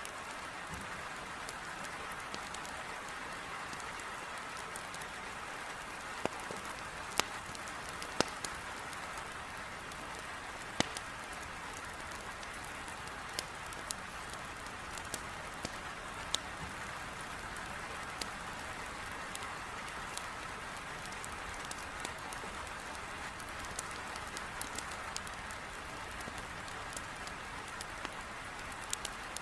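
Heavy rain drumming on a window as a steady hiss, with a wood fire in a fireplace giving sharp, irregular crackles and pops over it.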